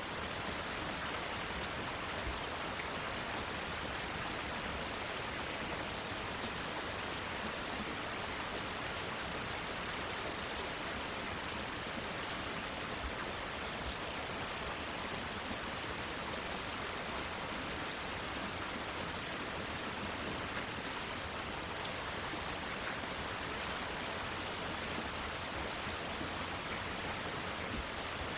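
Steady rain falling on leaves: an even hiss with scattered faint drop ticks, unchanging throughout.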